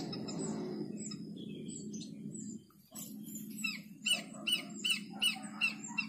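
A bird calling a rapid, evenly spaced series of short high chirps, about two to three a second, getting louder from about three and a half seconds in, over a steady low hum.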